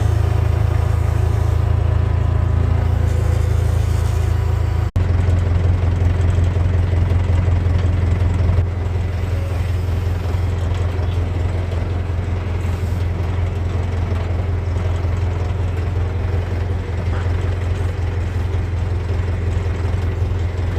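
Volvo 650 tractor engine running steadily while working, with a brief dropout about five seconds in.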